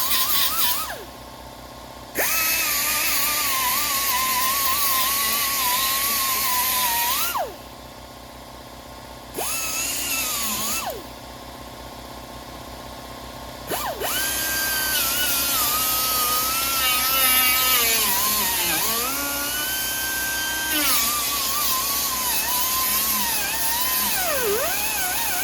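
Handheld power grinder grinding down welds on sheet metal. Its whine wavers as it is pressed into the work. It is switched off and spins down three times, each time with a falling pitch, before it is started again.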